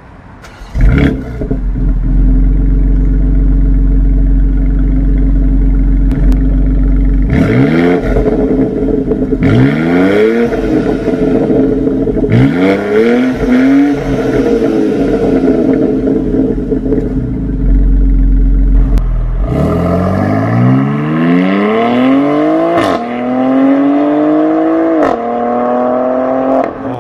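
BMW X3 M's 3.0-litre twin-turbo inline-six, chip-tuned to about 600 hp and running on its stock exhaust, starts with a sudden loud flare about a second in and settles to a deep idle. A few sharp revs follow in the middle. Then it pulls away, accelerating hard with two quick upshifts near the end.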